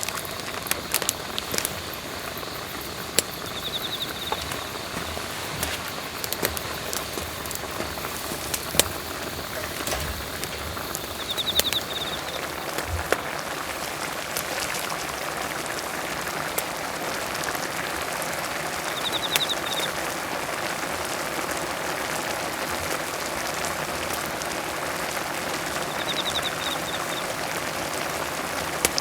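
Gopchang jeongol (beef tripe hot pot) boiling hard, a dense crackling, bubbling patter that grows stronger. A few light clicks in the first several seconds, and a bird trills briefly four times, several seconds apart.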